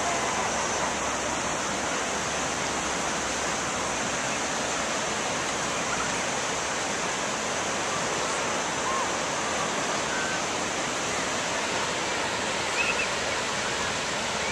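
Steady wash of ocean surf breaking on a beach, an even, unbroken rush of water noise.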